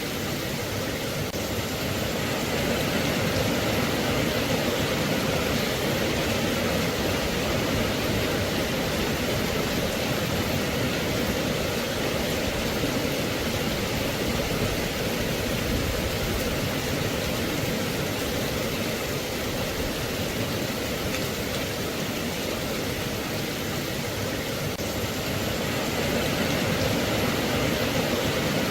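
Steady rain, an even hiss with slight swells in level.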